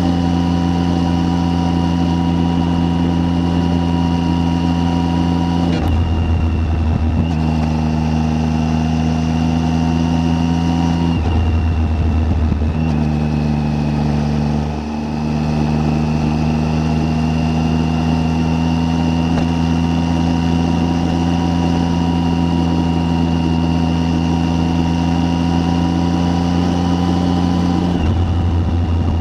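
Triumph Tiger 800's three-cylinder engine running steadily on the move; its note breaks briefly and settles to a new pitch a few times, about six, eleven and twenty-eight seconds in.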